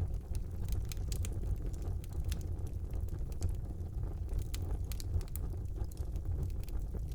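Wood fire burning in a brick fireplace: a steady low rumble of the flames with irregular sharp crackles and pops from the burning logs.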